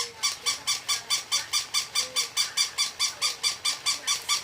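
A toy giving a fast, even run of high squeaks, about five a second, each on the same pitch.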